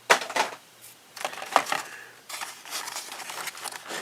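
Plastic blister pack and its cardboard backing card being handled: a few sharp clicks and crinkles in the first half, then a stretch of crackly rustling.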